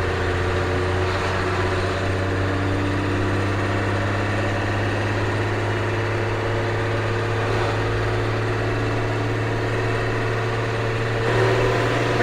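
Ford CF7000 truck's 6.6 L Brazil diesel engine running steadily under load, driving in fifth gear with the two-speed rear axle in low. It grows a little louder near the end.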